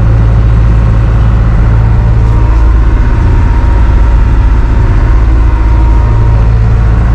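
Dive boat's engine running steadily under way, a loud, constant low hum.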